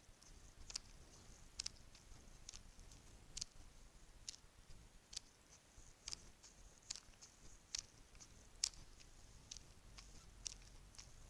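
Bracelets handled close to the microphone, giving soft, sharp clicks at an even pace of a little more than one a second, with a faint jingle between them.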